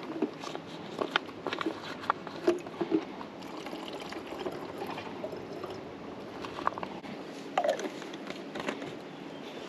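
Liquid sounds, pouring and trickling, with scattered short clicks and knocks throughout.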